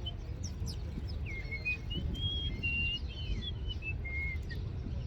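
Small birds chirping in a scatter of short, high calls and brief whistled notes, over a low steady rumble.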